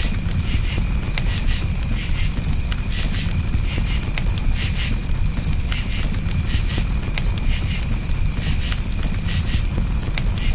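Campfire crackling in scattered sharp pops over a steady low rumble of the fire, with crickets chirping in short repeated pulses.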